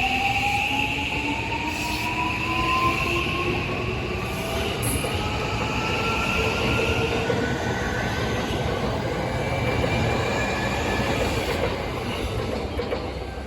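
JR West 323 series electric train pulling away, its traction motors whining in a steadily rising pitch as it gathers speed over wheel and rail noise. A high steady squeal fades out about seven seconds in.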